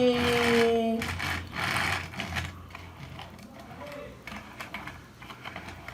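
A drawn-out, falling 'yeah!', then light irregular plastic clicking and rattling from a toy fuel tanker truck being handled.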